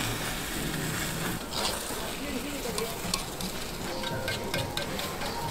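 Giant takoyaki frying in hot takoyaki pans: a steady sizzle, with scattered clicks and scrapes as picks turn the balls in their wells.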